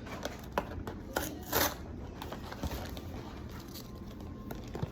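A cardboard snack box being handled and opened: scattered clicks, scrapes and crinkles, with two short rustling bursts about a second and a second and a half in.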